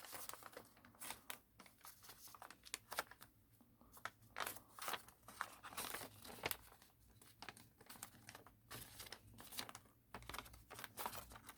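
A sheet of origami paper being handled, folded and creased by hand: faint, irregular crinkles and crackles.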